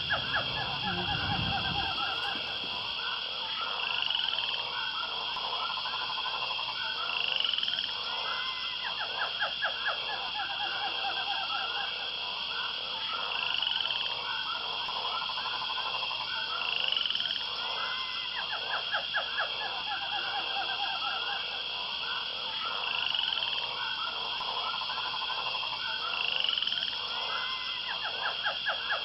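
Outdoor animal chorus of croaking calls in repeated pulsed trains, a few seconds apart, over a steady high drone.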